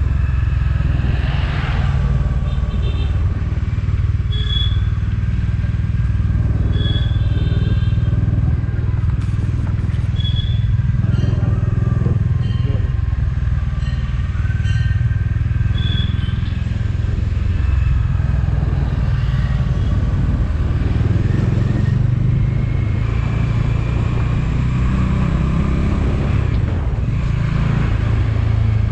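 Motorcycle riding along a road: a steady low rumble of engine and road noise, with short high-pitched tones cutting in now and then.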